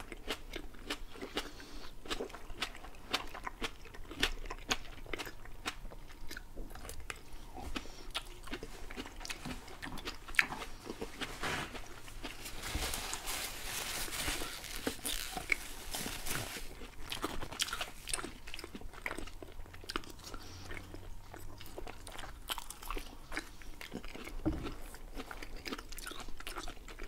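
Close-miked chewing and biting of shawarma by two people: many small wet mouth clicks throughout. A stretch of rustling from the paper wrapper comes in the middle.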